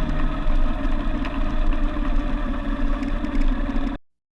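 Motorcycle engine running steadily, then cutting off suddenly about four seconds in.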